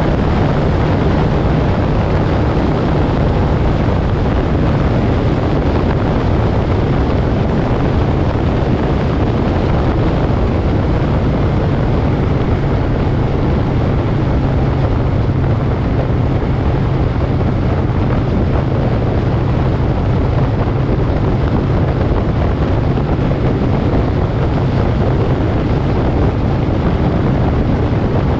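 Moto Guzzi Griso's V-twin engine running steadily at road speed, with wind noise on the microphone.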